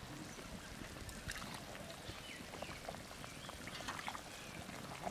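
Faint sounds of boiling country chicken curry being ladled out of the pot, with scattered small clicks.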